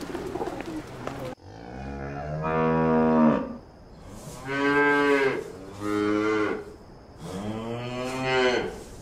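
A pigeon flock's cooing and fluttering for about the first second, cut off abruptly. Then a calf moos four times, in long drawn-out calls with short gaps between them. The first and last calls are the longest.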